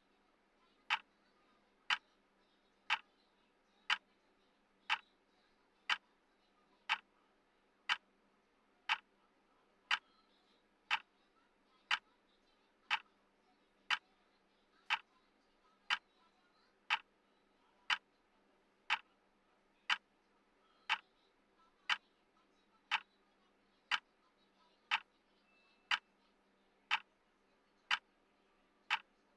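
Clock ticking once a second, sharp even ticks: the tick sound of a countdown timer.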